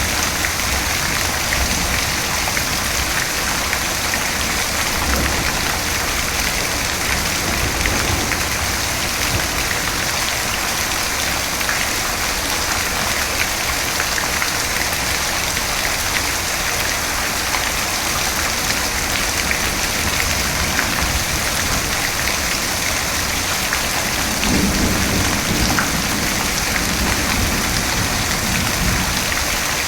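Steady heavy rain falling, an even hiss, with a short low rumble of thunder near the end.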